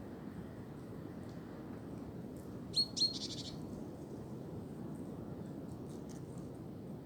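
Steady wind in tree branches, with a bird giving two sharp chirps in quick succession about three seconds in.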